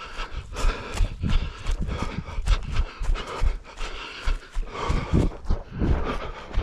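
A runner's footsteps on forest ground, about three a second, with heavy panting breath between them.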